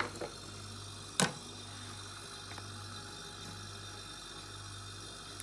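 A steady low hum with one sharp click about a second in and a faint tick a little later.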